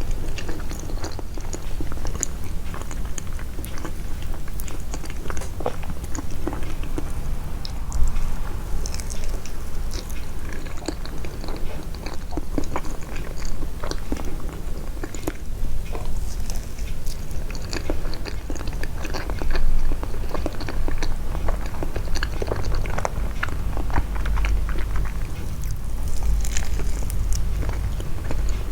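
Close-miked, amplified chewing of soft sweets: many small wet mouth clicks and smacks, with a steady low hum underneath.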